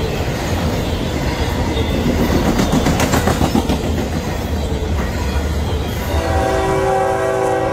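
Freight train rolling past with wheels clattering over the rails. About six seconds in, a locomotive air horn starts sounding a steady chord of several notes.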